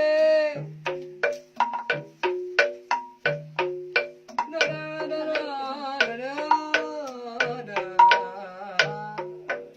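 Gamelan music: ringing struck strokes and drum beats at a steady pace of about three a second, with a sustained melody line that bends in pitch around the middle.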